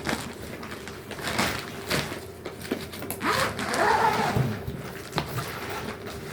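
Household objects being handled: a run of irregular knocks and clatters, with a short squeak-like sound in the middle.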